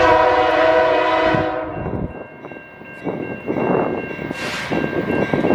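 GE C44-9W diesel locomotive's air horn sounding a chord that cuts off about two seconds in, followed by the train rolling past with wheel and rail noise.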